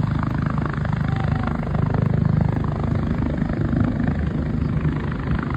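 Helicopter's rotor and engine running close by in a steady loud beat, with a rapid chop of the blades over a low hum.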